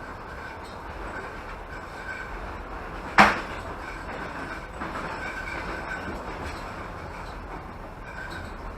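Passenger train running, heard from inside the carriage: a steady rumble and rattle of wheels on the rails, with one sharp bang about three seconds in.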